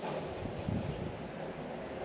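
Steady outdoor background noise with a low rumble, broken by a couple of soft low thuds about half a second in.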